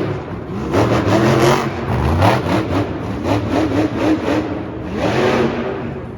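Monster truck's supercharged big-block V8 revving hard, the pitch surging up and dropping back again and again. The loudness eases off near the end.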